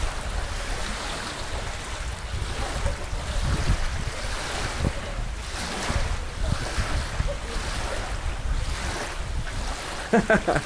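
Wind buffeting the microphone: a rough, uneven low rumble, with a brief voice-like sound just before the end.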